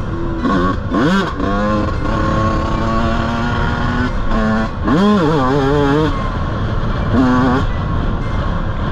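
Off-road motorcycle or quad engine revving up and down in several sharp bursts, holding a steady pitch between them, over a low rumble.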